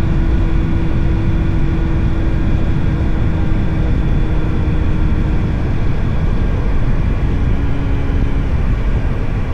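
Motorcycle on the move: the engine running steadily under a heavy rush of wind on the camera's microphone, its note dropping a little about halfway through and again near the end.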